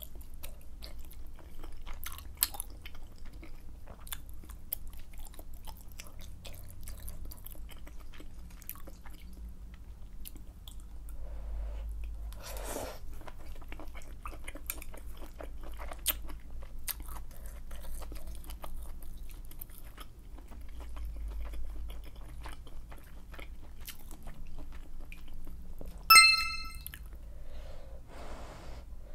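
Close-miked eating sounds from a bowl of malatang: wet chewing with many small clicks and crunches as wide glass noodles and other ingredients are eaten, with one longer slurp about twelve seconds in. Near the end a short, bright chime sounds once, louder than everything else.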